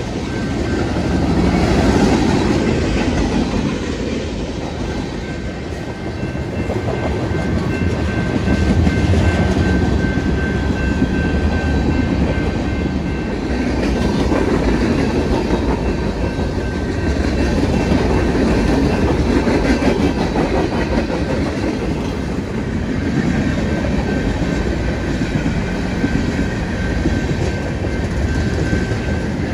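Freight train cars rolling steadily past, steel wheels clacking over the rail joints over a continuous rumble that swells and fades gently as the cars go by.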